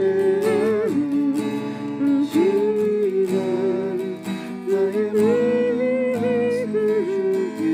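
Acoustic guitar strummed in a steady rhythm under a voice singing or humming a slow praise-song melody in long held notes.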